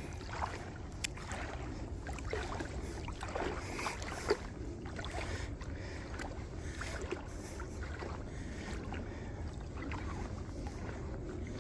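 Steady rush of river water with a low wind rumble on the microphone, and scattered small clicks and brief splashy swishes throughout.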